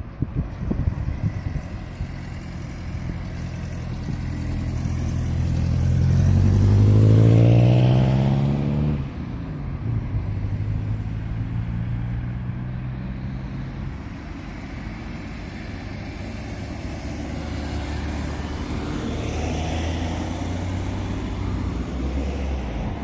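A motor vehicle's engine accelerating, rising in pitch and getting louder, then dropping sharply in pitch about nine seconds in, as at a gear change. It then runs on more steadily at a lower pitch.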